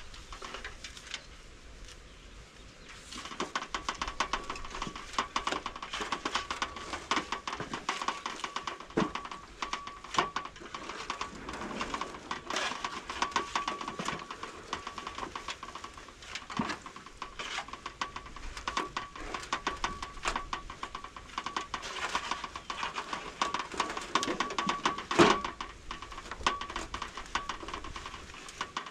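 Hands working a wet mud-and-straw mix: dense, irregular crackling and squelching that starts a few seconds in, with one sharper knock near the end. A thin steady tone runs underneath.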